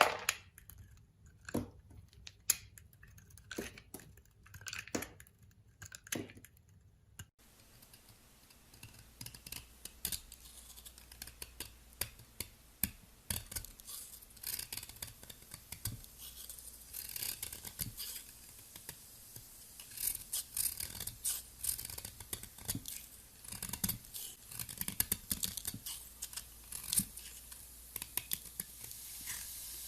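A knife cutting into a bar of soap. First come separate crisp cuts about a second apart, then, after a sudden change about seven seconds in, a dense run of fine crackling as the blade slices through the soap.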